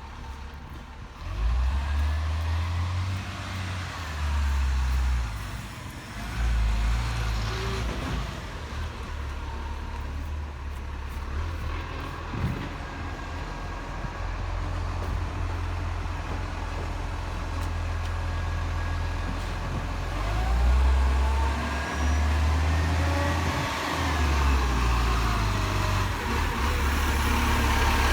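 Garbage truck engine running, its low rumble swelling and easing several times as it is revved.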